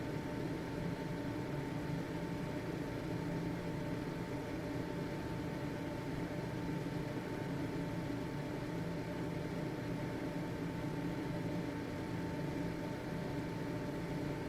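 Household ventilation (exhaust) fan running steadily: an even motor hum and rush of air with a faint steady whine on top.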